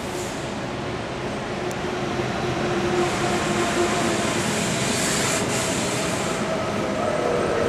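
A train moving through a station: a steady rumbling noise with a humming tone, growing louder about three seconds in.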